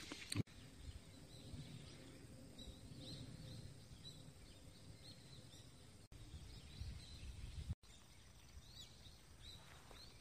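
Faint small-bird chirps, short high calls repeating irregularly over a low steady outdoor background noise, briefly cut off twice.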